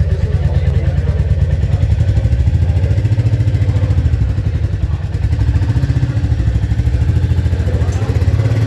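Royal Enfield Meteor 350's single-cylinder engine idling steadily, with a fast, even thump.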